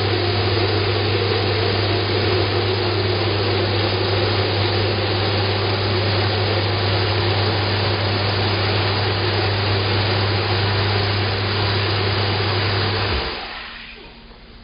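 Two shower heads spraying water side by side, one of them a flow-regulated water-saving head: a steady hiss over a steady low hum. Both stop about 13 seconds in, as the water is shut off.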